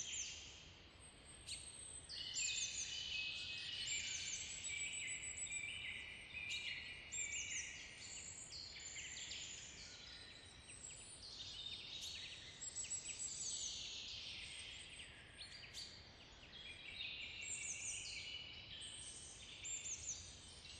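Woodland birdsong: several birds chirping and twittering over one another continuously, with many short, quick calls, some sweeping down in pitch.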